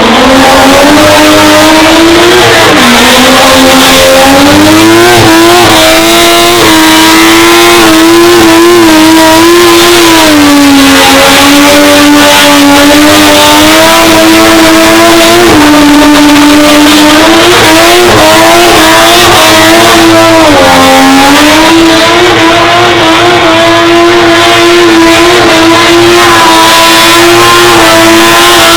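Supercharged rotary engine running at high revs, very loud, its pitch held high and wavering, with a few brief dips where the revs drop and climb back.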